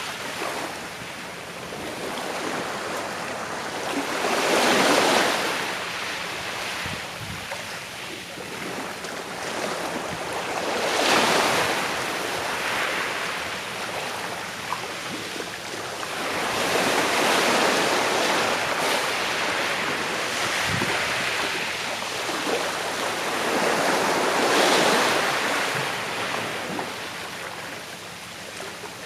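Sea waves breaking gently on the shore, each wash swelling and fading away, about every six seconds.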